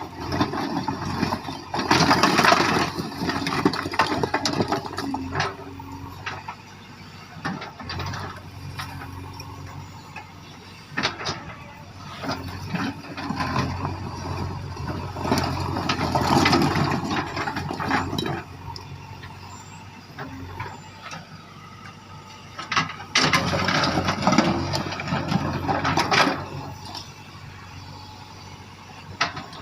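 JCB 3DX backhoe loader's diesel engine running steadily, with three louder spells of scraping and clattering as the machine works through stones.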